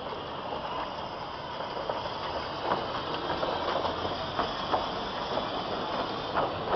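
Darjeeling Himalayan Railway narrow-gauge toy train running, a steady rushing noise with irregular sharp clanks and clicks of wheels and rolling stock on the rails, coming more often from about two and a half seconds in.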